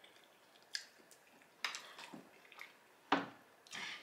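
Close-miked wet mouth sounds of eating baked spaghetti: about five short, sharp smacks and clicks of chewing and lips, with quiet gaps between them. Near the end a metal fork clicks against a glass dish.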